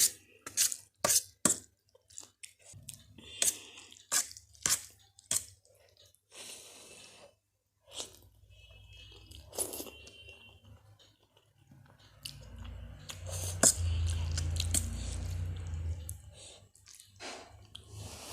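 Close-up chewing of spicy Maggi noodles with crunchy Kurkure, with sharp crunches about two a second for the first six seconds and sparser chewing after. From about twelve seconds in there is a louder stretch, lasting about four seconds, with a low rumble.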